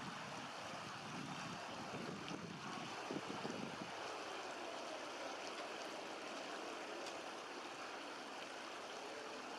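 River water running steadily over a stony riverbed, with a brief low rumble a few seconds in.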